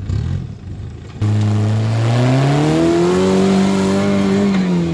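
Off-road rig's engine revved hard. It starts abruptly about a second in, climbs in pitch, holds high, and drops back near the end.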